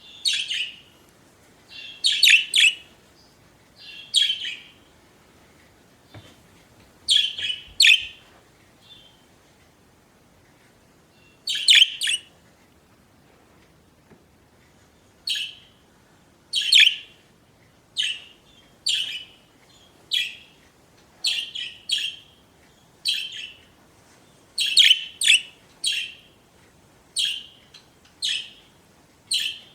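Pet budgerigars chirping: short, sharp calls come every second or so, with two quiet gaps of a few seconds.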